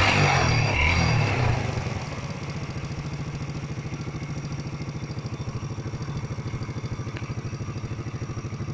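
Honda Biz 100's single-cylinder four-stroke engine running: revved for about the first second and a half, then dropping back to a steady idle with an even pulsing beat.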